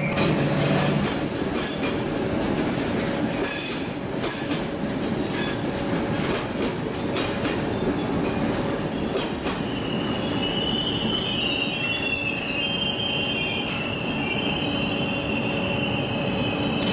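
A train moving slowly through a station, its steel wheels squealing on the rails; a high, wavering squeal sets in about halfway through and holds to the end. There are a few clacks of wheels over rail joints or points in the first several seconds.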